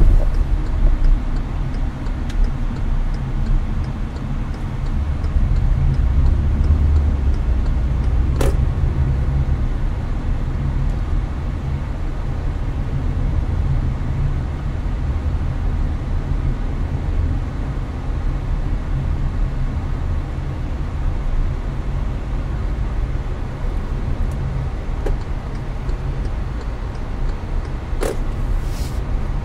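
Steady in-cabin drone of a Hyundai Avante cruising on the highway: low road and engine rumble mixed with the hiss of the air conditioning. Two brief sharp knocks cut through it, one about eight seconds in and one near the end.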